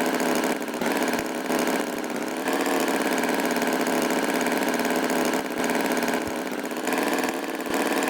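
Tractor engine sound effect running steadily, its level dipping briefly a few times.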